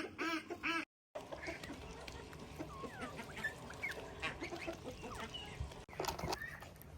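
Farmyard poultry calling: a quick run of duck quacks, about three a second, breaks off with a sudden cut about a second in. After the cut comes a mix of short chirps, whistles and clucks from birds and fowl, with a louder call near the end.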